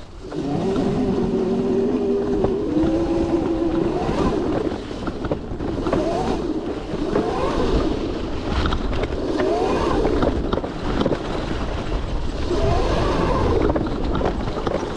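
Modified 72-volt Razor MX650 electric dirt bike's motor and drivetrain whining under way. The pitch holds steady at first, then rises and falls four or five times as the rider accelerates and eases off, over a steady rush of tyre and wind noise.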